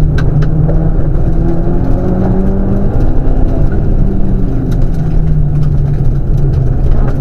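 Rally car engine running hard along a stage, its note climbing and dropping back several times as it accelerates and changes gear, over steady road and tyre noise.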